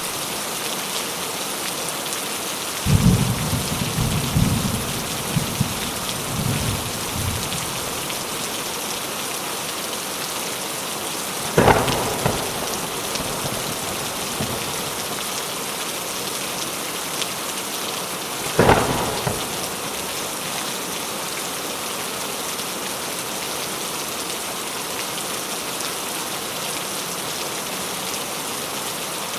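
Steady heavy rain falling. A low rolling rumble of thunder comes a few seconds in, followed by two sharp thunder cracks about seven seconds apart, each tailing off.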